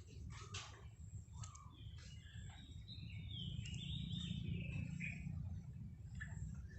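Birds chirping in quick, gliding notes over a steady low rumble of background noise.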